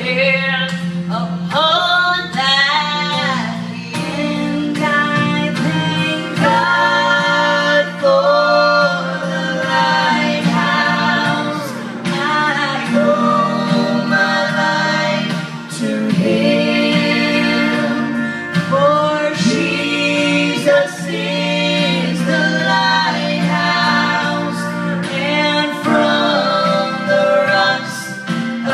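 Vocal trio singing a gospel song in harmony, female and male voices together, over a steady instrumental backing.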